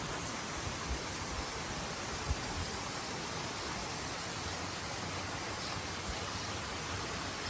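Steady, even outdoor hiss, with a few faint low thumps about one, two and six seconds in.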